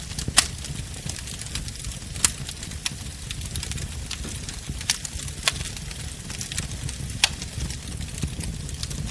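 Wood fire burning: a steady low rumble of flames under a scatter of small crackles, with five sharp pops, the loudest less than half a second in.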